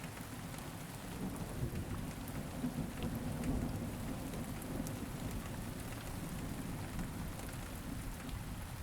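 Steady background rain, with scattered fine drop ticks and a low rumble underneath.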